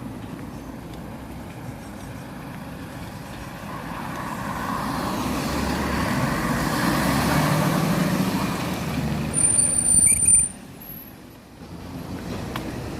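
A heavy road vehicle passing close by, its rumble building over several seconds, with a brief high squeal about nine to ten seconds in as it goes by, after which the sound drops off suddenly.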